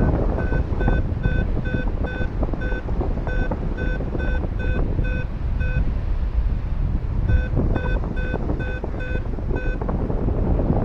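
Wind buffeting the microphone in flight, with a paragliding variometer's short electronic beeps, two or three a second at one steady pitch. The beeps stop for a moment mid-way and then resume a little faster. This is the vario's climb tone, sounded while the glider is rising in lift.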